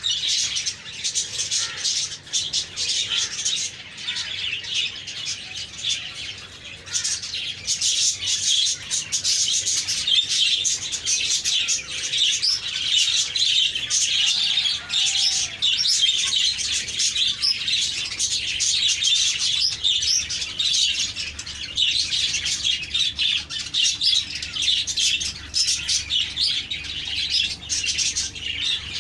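Many small birds chirping without a break, a dense chorus of quick, high chirps.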